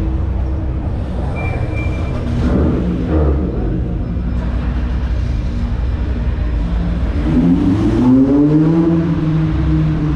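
Car engines running with a steady low rumble; about seven seconds in, one engine revs up and holds at a higher pitch.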